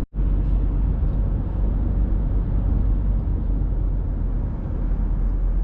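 Steady road and engine rumble inside a car cruising on the highway.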